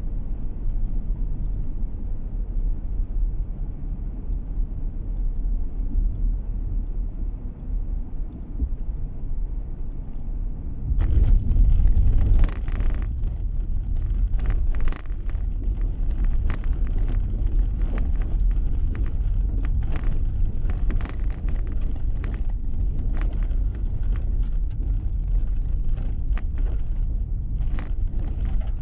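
Car driving, its road and engine rumble heard from inside the cabin. About eleven seconds in the rumble gets louder and is joined by frequent scattered crackles and ticks.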